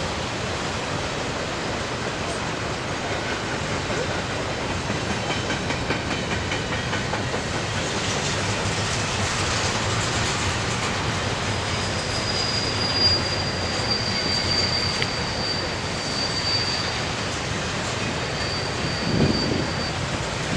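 A train rolling past, its wheels running steadily on the rails. About halfway through, a thin, high wheel squeal comes in, breaks off briefly and returns.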